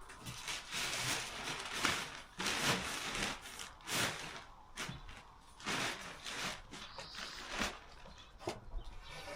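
Wooden ceiling panels being handled, with irregular scrapes and rubs of wood on wood, several of them sharper than the rest.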